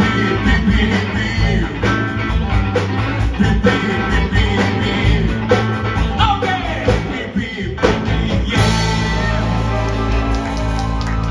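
Rock band playing: electric guitar and drum kit with a steady beat, with some singing.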